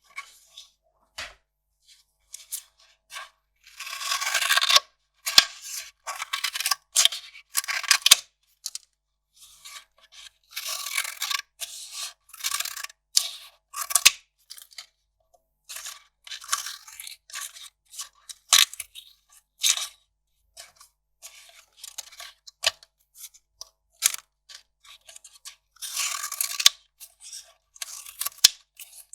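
Kraft paper being torn and crinkled by hand. It comes in bursts of a second or so, with short sharp crackles between and brief pauses.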